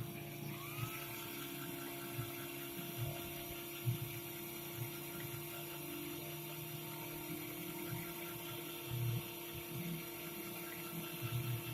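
Small electric motor of a lapping machine running on a rotary-engine stator housing, a steady whine with a tone that rises and settles about half a second in. Irregular low knocks and rubbing run underneath.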